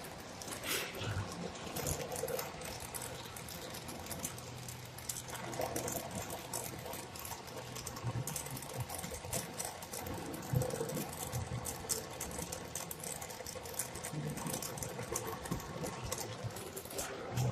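Brazing torch flame hissing steadily, with many small crackling clicks, as fittings are brazed onto a refrigerator's refrigerant line.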